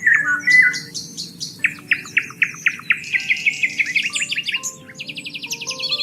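Several birds singing at once in a dense chorus of chirps and rapid trills. A fast, buzzy trill repeats near the end.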